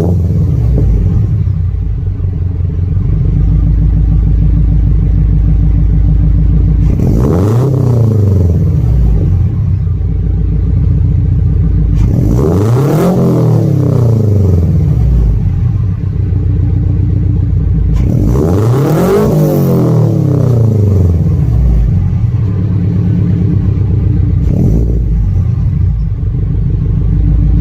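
Scion FR-S's 2.0-litre flat-four engine idling through an ISR single-exit aftermarket exhaust and revved three times, each rev rising and falling over two to three seconds, about five to six seconds apart.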